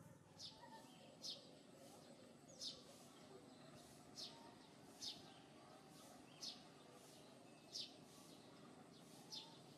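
Faint bird chirping: eight short, high chirps, each falling quickly in pitch, repeated about once a second over a low background hiss.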